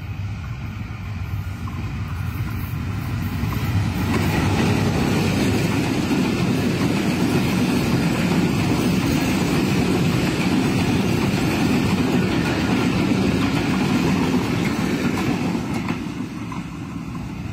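Diesel-hauled Bangladesh Railway intercity express train passing close by at speed. The rumble of wheels on rail grows much louder about four seconds in as the train comes alongside, holds steady while the coaches run past, then falls away near the end as the last coach goes by.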